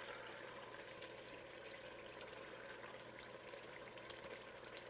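Faint, steady sizzling of onion, ginger and garlic masala frying in oil in a steel pot, with a few small crackles.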